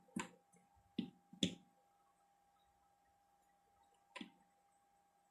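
A few light clicks and taps of a circuit board and tools being handled while burn marks are cleaned off: one about a quarter second in, two close together around one to one and a half seconds in, and one about four seconds in. A faint steady hum runs underneath.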